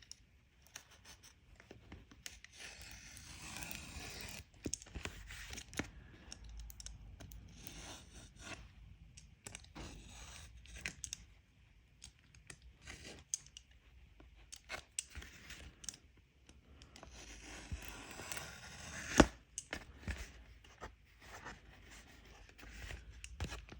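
A package of polarizing film sheets being opened by hand: intermittent tearing, scraping and rustling of the packaging with scattered small clicks, and one sharp snap late on.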